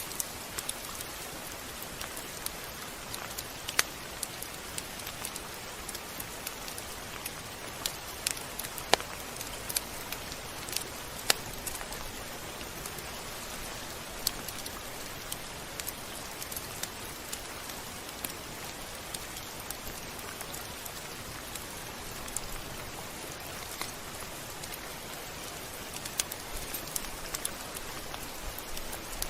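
Steady rain falling: an even hiss broken by scattered sharp drop ticks, a few of them louder.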